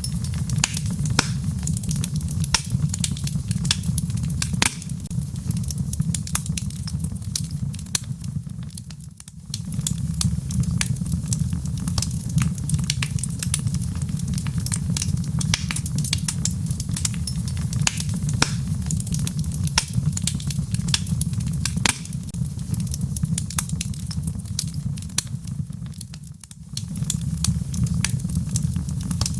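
Wood fire burning in a fireplace: a steady low rumble of flame under frequent sharp crackles and pops from the burning logs. The sound dips briefly twice, about nine seconds in and again late on.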